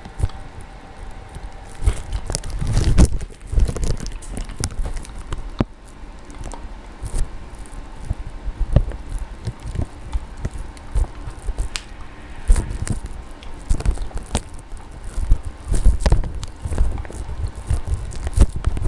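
Snowstorm wind buffeting the microphone in uneven gusts, a low rumble that swells and drops, with frequent crackles and clicks over it.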